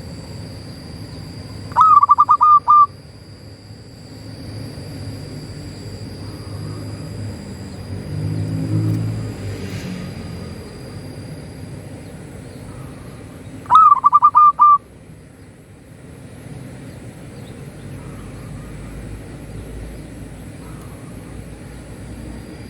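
Zebra dove (local perkutut) singing twice, each song a quick run of about half a dozen cooing notes lasting about a second, the first a little under 2 s in and the second about 14 s in. A steady high-pitched whine runs underneath, with a low rumble swelling in the middle.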